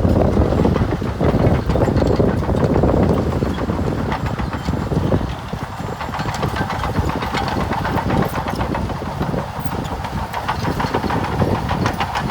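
Heavy earthmoving machine's diesel engine running, loudest for the first five seconds or so, then easing slightly under a dense, rapid rattling clatter.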